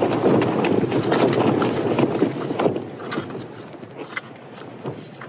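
A fork stirring and mashing noodles in a plastic Pot Noodle pot: rapid scraping and tapping, busiest for about the first three seconds, then fading to a few scattered taps.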